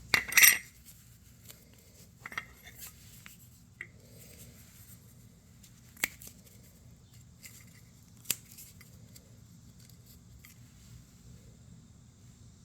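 A short burst of scraping or snipping, then a few separate sharp clicks seconds apart over a faint low hum: small hand work, with no engine running.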